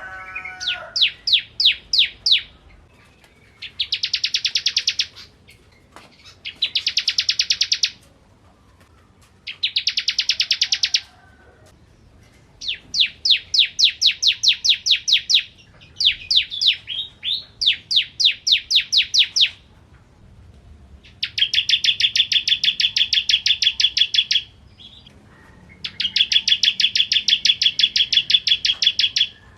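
Ciblek kristal (bar-winged prinia) singing. It gives loud, high phrases of rapidly repeated sharp notes alternating with dense buzzy trills, each phrase lasting one to three seconds, with short pauses between.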